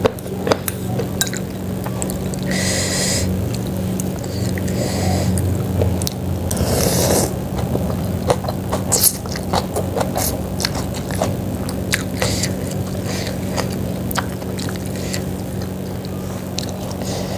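Close-up eating sounds of someone eating chicken-feet soup: chewing with scattered small clicks, and two longer noisy bursts about three and seven seconds in, over a steady low hum.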